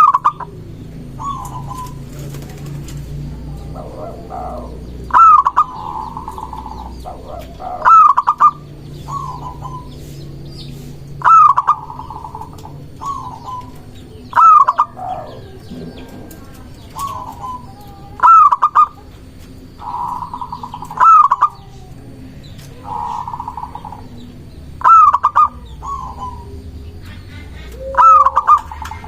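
Zebra dove (perkutut) singing its cooing song: a phrase of sharp ringing coos running into a rolling trill, repeated about nine times, roughly every three seconds.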